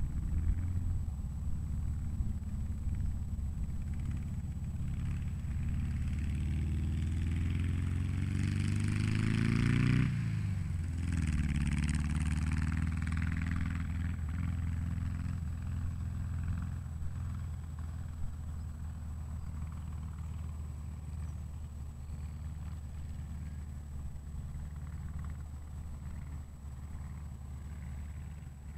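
VW Bug rat rod's engine revving hard as the car accelerates, its pitch climbing for about ten seconds, dropping abruptly, then climbing again briefly before settling lower and slowly fading as the car moves off.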